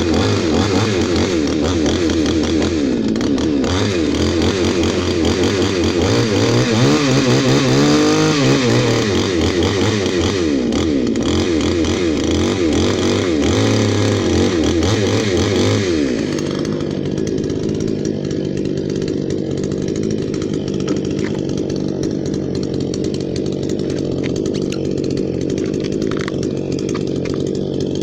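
Eisen 62cc earth auger's two-stroke engine running at high revs with a wavering pitch that rises briefly about eight seconds in, then dropping to a slower, steady idle about sixteen seconds in.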